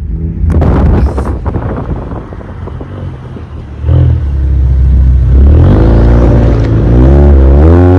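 Modified Chrysler SRT's engine running under acceleration. It gets suddenly louder about four seconds in, and in the second half its pitch climbs and dips repeatedly as it revs.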